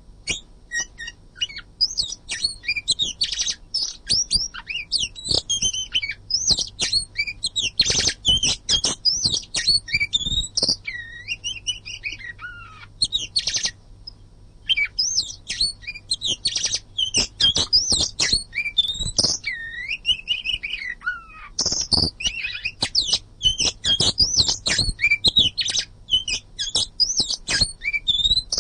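Oriental magpie-robin (kacer) singing continuously: fast, varied whistled phrases full of rising and falling notes, with one short break about halfway through.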